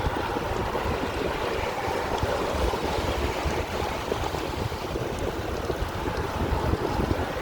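A steady rushing noise, even and unbroken, heaviest in the low end.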